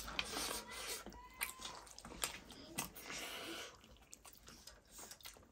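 Quiet eating sounds: chewing and mouth noises with scattered small clicks and brief rustles as fingers pick at chicken and rice on plates.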